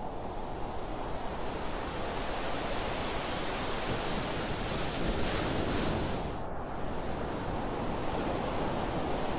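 Ocean waves washing in a steady rushing noise, swelling a little about five seconds in.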